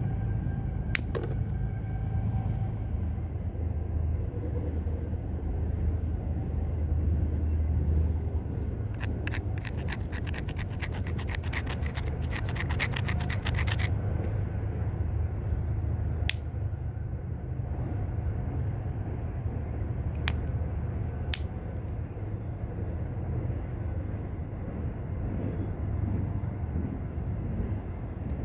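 Flintknapping with a homemade bopper: a few sharp, single clicks of stone being struck, and near the middle a fast run of small taps and scrapes lasting about five seconds, over a steady low rumble.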